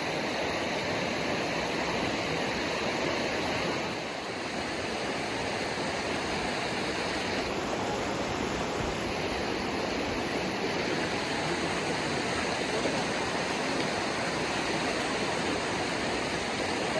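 Small stream flowing steadily over stones, a continuous splashing water noise.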